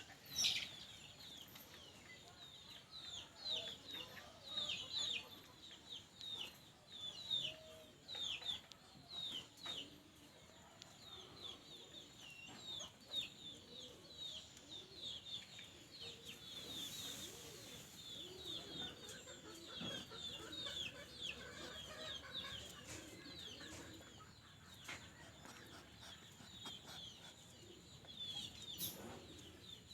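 Rapid, continuous series of short, high-pitched peeps, each falling in pitch, several a second, from a small animal.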